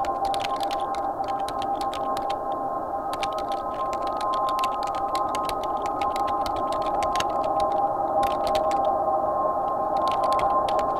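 A steady drone of several held tones over a hissing haze, with irregular runs of light clicks on top.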